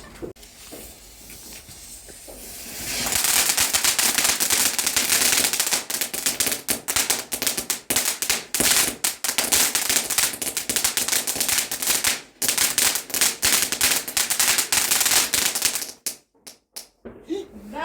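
Firework crackling: a dense, continuous stream of sharp crackles that starts after about three seconds of faint hiss and stops abruptly about a second before the end.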